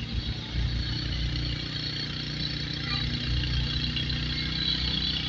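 A car's engine running steadily, a deep even drone with no sudden changes.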